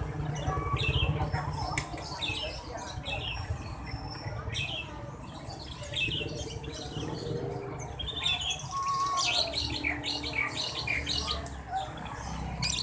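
Many caged birds on sale at a bird market chirping and twittering together, short overlapping calls throughout, over a low steady rumble.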